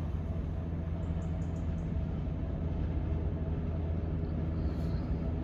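Diesel train engine running steadily, a low even hum with no change in pitch.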